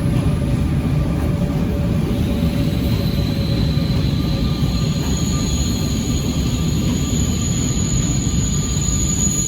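A train running: a steady loud rumble with faint whining tones, and a high-pitched whine joining about halfway through.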